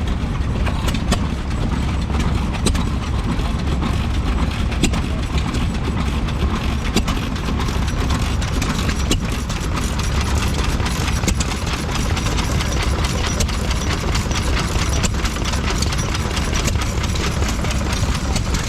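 Vintage stationary engine running steadily, with a strong low hum and frequent sharp clicks throughout.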